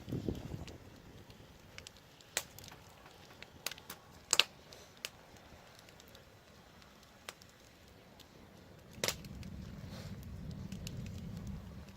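Burning wood crackling, with scattered sharp pops; the loudest comes about four seconds in. A low rumble runs at the start and again from about nine seconds on.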